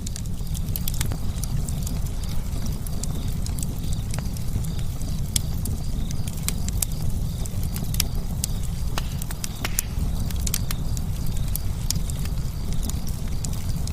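Campfire crackling, with irregular sharp pops and snaps over a steady low rumble of the burning fire.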